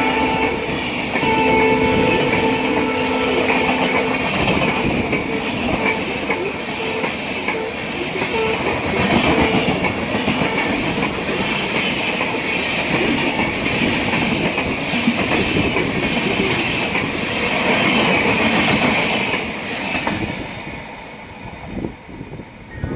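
An EMD diesel locomotive's horn sounds twice in the first few seconds, then a passenger train passes at speed with rushing, clattering wheel and rail noise that fades away about 20 seconds in.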